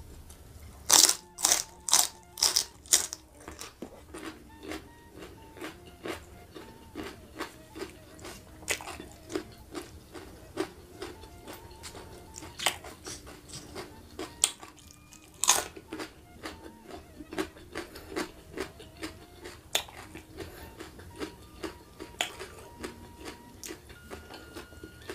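Close-miked crunching of a raw winged bean bitten into and chewed: six loud crisp crunches in quick succession about a second in, then steady open-mouthed chewing with a few louder crunches along the way.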